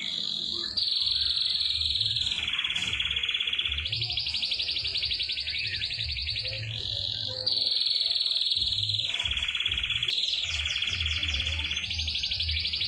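Domestic canary singing long, rapid rolling trills, each held for about two seconds and switching back and forth between a higher and a lower pitch, the sustained rolls of a canary training song. A faint low pulsing runs underneath.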